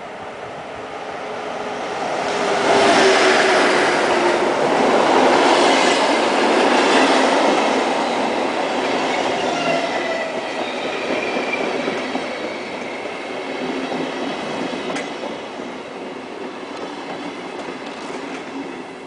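SBB electric locomotive and passenger coaches running past the platform. The rolling noise of wheels on rails swells as the locomotive goes by, with a falling whine, then eases off as the coaches roll past.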